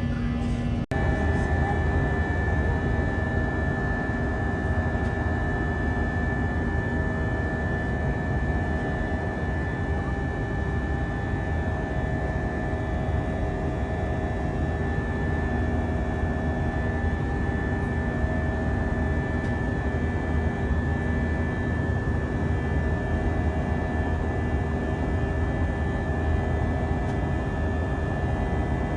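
Jet airliner engines during the climb after takeoff, heard as a steady drone in the cabin with several steady whining tones over it. The sound cuts out very briefly about a second in.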